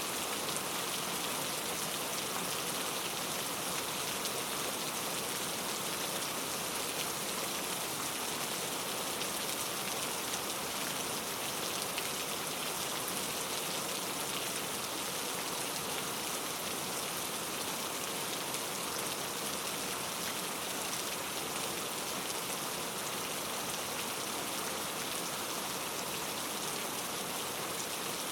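Steady rain falling, a continuous even hiss of raindrops with no thunder.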